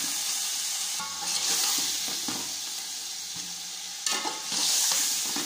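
Raw chicken pieces sizzling as they go into hot oil and masala, with a metal slotted spoon stirring and scraping against the metal pot. The sizzle swells about a second in and again near the end, with short scrapes and clinks of the spoon.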